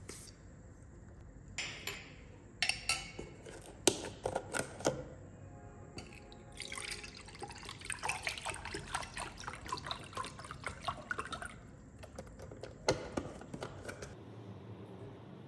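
Kitchen handling: a few knocks of things being set down, then liquid pouring and splashing for about five seconds, then another knock or two.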